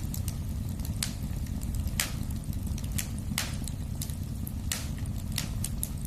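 Wood fire burning in a fireplace with a steady low rumble and sharp, irregular crackles and pops, about one a second.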